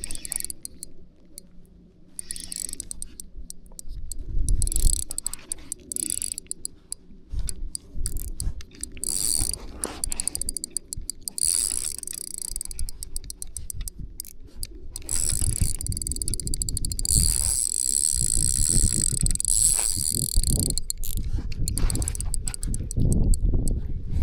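Fishing reel being cranked while fighting a hooked bass, its gears whirring with rapid clicking, getting louder and steadier about two-thirds of the way through. Wind rumbles on the microphone underneath.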